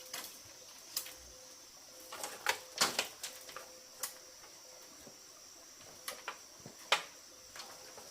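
Scattered sharp knocks and taps, loudest about three seconds in and again near seven seconds, over a faint steady high-pitched hum.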